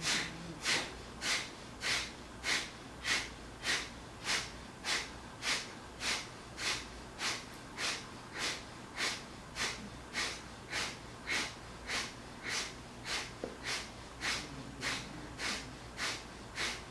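Kapalabhati breathing: short, forceful exhalations through the nose in an even rhythm, a little under two a second.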